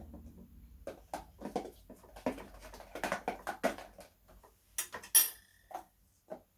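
Homemade slime being worked by hand, making a string of short sticky clicks and squelches, with one sharper, louder click a little after five seconds in.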